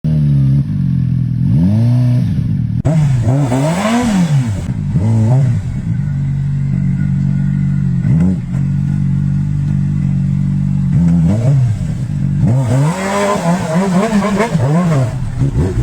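Off-road motorcycle engine revving up and down again and again as the throttle is worked, with a steadier stretch in the middle.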